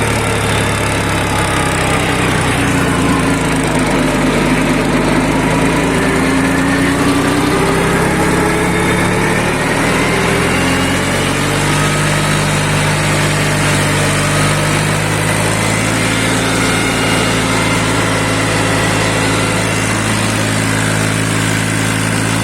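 Balwan tractor's diesel engine running steadily while driving an 8-foot rotavator, its pitch drifting slightly up and down.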